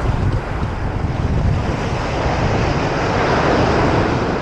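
Surf washing onto the beach, with wind buffeting the microphone as a low rumble. A wave's wash swells about halfway through and eases near the end.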